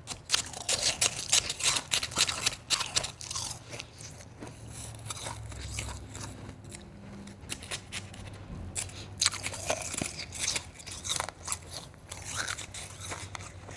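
Close-miked crunching and chewing of soft crushed ice: dense rapid crunches for the first four seconds, softer chewing in the middle, then another spell of crunching about nine to twelve seconds in.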